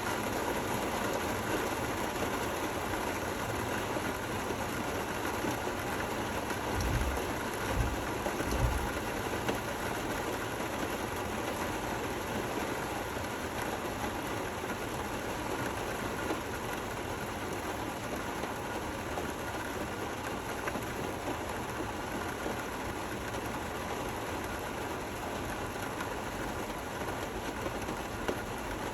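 Steady rain falling, an even hiss throughout, with three brief low thuds about seven to nine seconds in.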